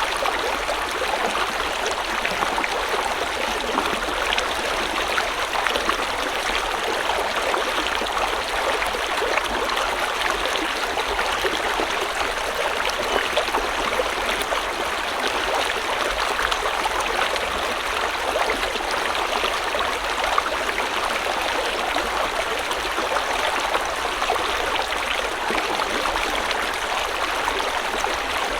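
A small river or stream flowing and splashing steadily over rocks, an even rush with a fine bubbling texture.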